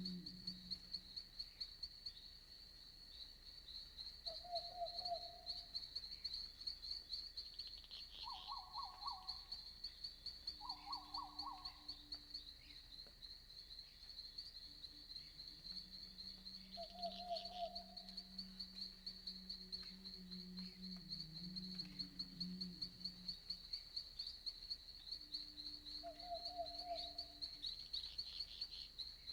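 Night forest ambience: insects chirping in a steady, high, fast-pulsing chorus, with a few short, lower trilled calls from other night animals every several seconds.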